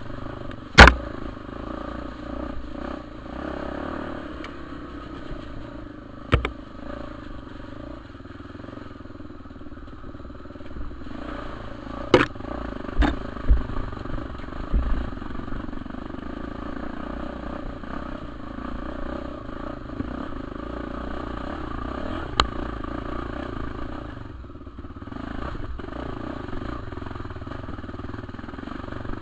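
Honda Tornado 250 trail motorcycle's single-cylinder four-stroke engine running steadily while riding a muddy trail, with sharp knocks and clatters now and then, several between about twelve and fifteen seconds in.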